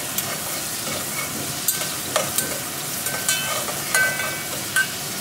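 Shrimp sizzling steadily in hot oil in an aluminium pot while a metal spatula stirs them. From about a second and a half in, the spatula scrapes and clinks against the pot several times, some strikes ringing briefly.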